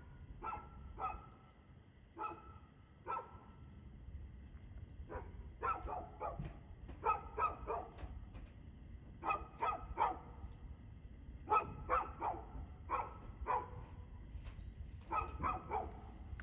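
A dog barking over and over: short, sharp barks, some single and most in quick runs of two to four, with short pauses between the runs.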